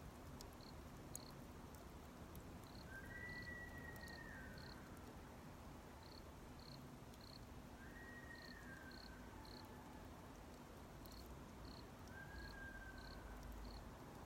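A faint outdoor hush with a chirping insect giving short high pips in small groups, and a drawn-out whistled call heard three times. A few faint pops come from the small wood fire.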